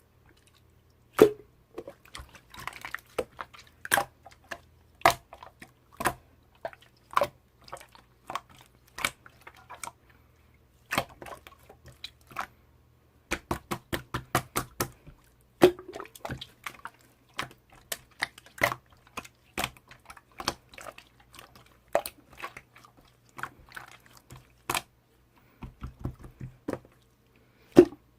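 Slime being pressed and squished by hand, making sharp pops and crackles at irregular intervals, with a quick run of them about thirteen to fifteen seconds in.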